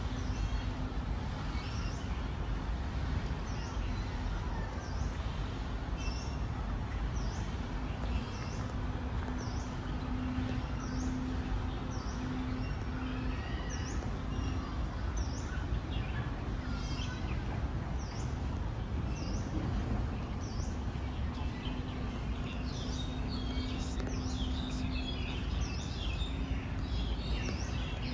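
Birds calling: one bird repeats a short, high, downward chirp about once a second, and more birds join with busier chirping near the end, over a steady low background rumble.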